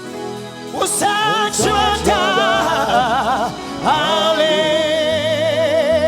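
Gospel-style singing with strong vibrato over a soft instrumental backing. The voice comes in about a second in and ends on one long held, wavering note.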